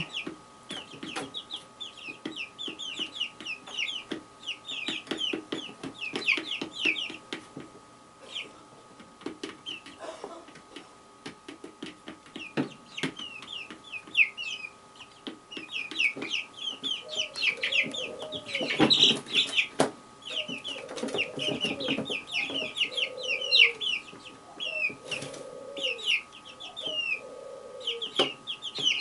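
Birds calling steadily with many short high chirps, and from a little past halfway a lower call repeated about once a second.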